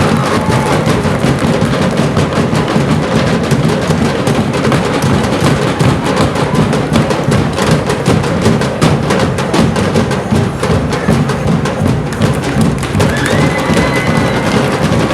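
Loud percussion-led music: dense, continuous drumming with sharp wood-block-like knocks, the kind of drum ensemble that accompanies street dancing.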